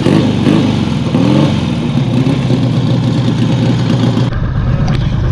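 AJS 650 CSR parallel-twin engine running just after a kick-start with the ignition fully advanced, blipped up and down a few times in the first two seconds, then settling to a steady fast idle.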